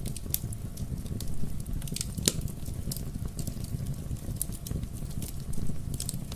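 Fire burning in a fireplace: a steady low rumble of flames with sharp, irregular crackles and pops scattered through it, the loudest pop a little over two seconds in.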